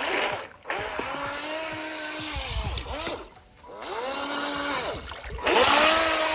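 Electric motor of a toy radio-controlled speedboat whining on the water, its pitch rising and falling as the throttle is worked in several bursts.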